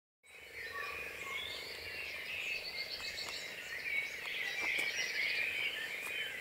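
Birds chirping and trilling, several calls overlapping, over a faint steady hum.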